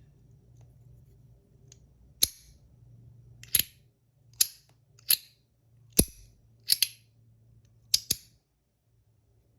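Compoform magnetic slider fidget coin being slid back and forth, its parts snapping together in sharp, loud clicks about once a second, twice in quick double clicks.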